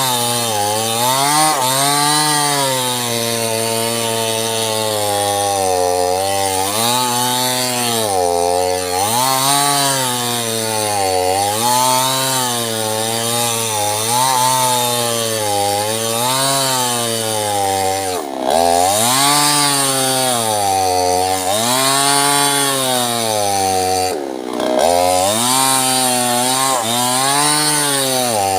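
Small chainsaw cutting sengon wood, its engine pitch rising and falling as the chain bites and eases off. The engine speed dips sharply twice, once about two-thirds of the way through and again a few seconds later.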